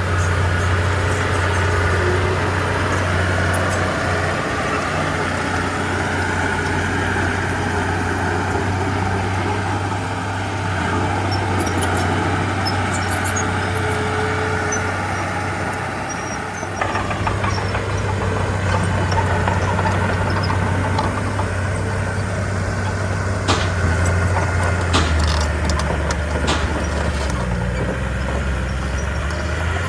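Heavy earthmoving machine's diesel engine running steadily. About halfway through its sound dips and picks up again, and a few sharp clanks come near the end.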